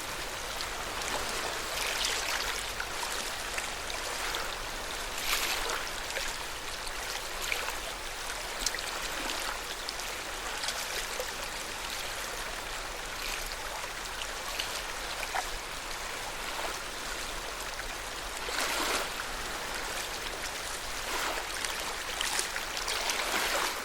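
Lake water moving at the shore: a steady wash with small, irregular splashes.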